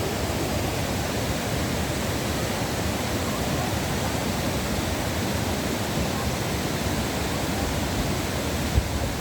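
Waterfall water falling and splashing, a steady rushing noise, with a brief thump near the end.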